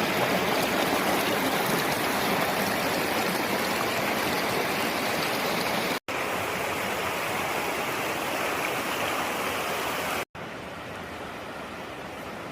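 Rushing river water, a steady loud rush, across three edited shots, much quieter after the cut about ten seconds in.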